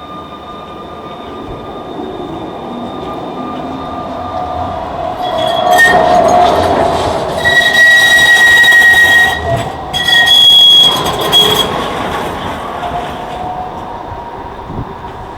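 A tram running close by on steel rails. It grows louder over the first few seconds, its wheels squeal with high sustained tones at its loudest about halfway through, then it fades away.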